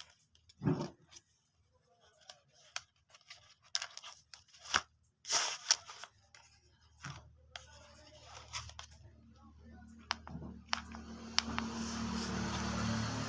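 Unboxing handling noises: scattered clicks, scrapes and short tearing or rustling bursts from packaging being opened, then a steadier rushing noise that grows louder over the second half.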